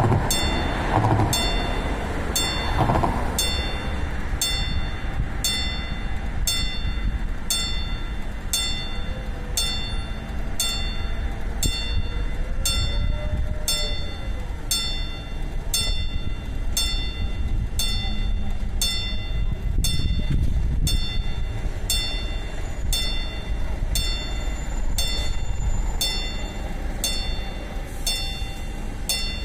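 Level crossing warning bell ringing with even strikes about once a second, over the low rumble of the diesel railcar VT03 at the crossing.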